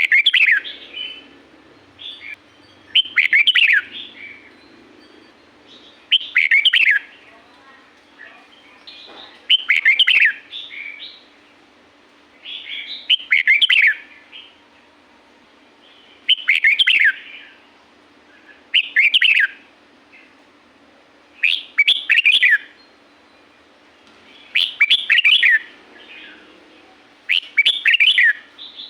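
Red-whiskered bulbul singing: short bursts of quick, falling whistled notes, repeated about every three seconds, over a faint steady hum.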